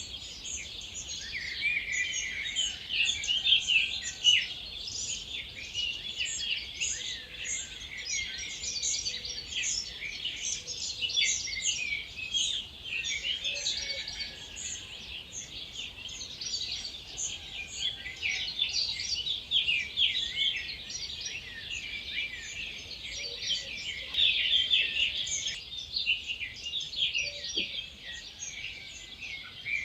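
Dawn chorus: many wild birds singing at once, a dense overlapping mix of short chirps and trills that never lets up.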